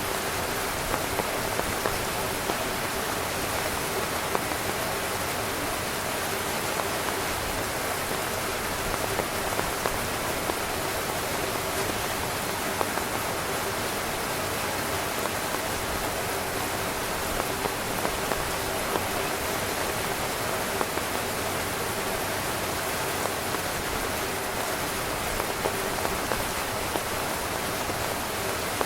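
Steady heavy rain drumming on tent fabric, a dense even hiss with many small individual drop taps standing out.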